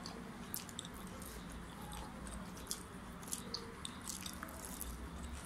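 Close-up eating sounds of barbecue chicken wings and bread being bitten and chewed: scattered soft wet smacks and clicks of the mouth over a faint low hum.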